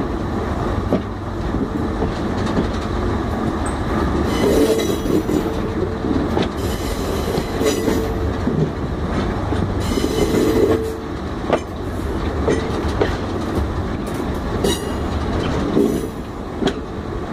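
Small diesel shunting locomotive and a wooden flat wagon running along the track: a steady rumble with wheels clicking over rail joints every second or two, and several short bursts of high wheel squeal.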